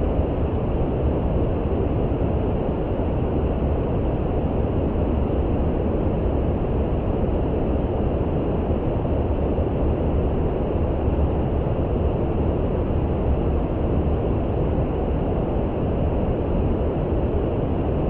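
Steady brown noise: an even, deep rushing hiss, strongest in the low end and thin in the highs, with no change in level.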